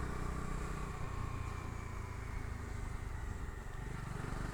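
Bajaj Dominar 250's single-cylinder engine running steadily under way, heard from the pillion seat with road and wind noise, its note easing slightly in the first couple of seconds.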